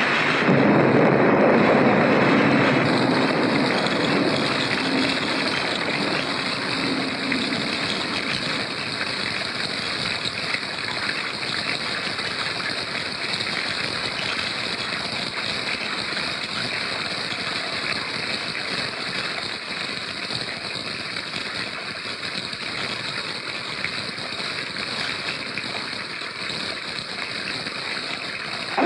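Heavy rain pouring down steadily, with a rumble of thunder in the first few seconds; the downpour slowly eases.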